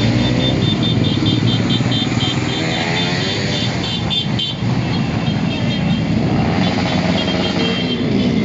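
A caravan of many motorcycles running, their engines rising and falling in pitch, with a high, rapidly repeated beeping over them.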